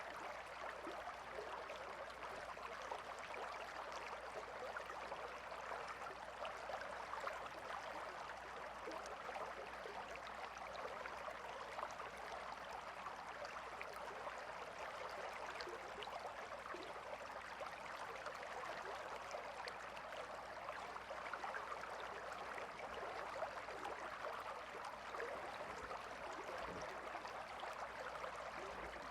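Calm river flowing steadily: a continuous, even rush of water.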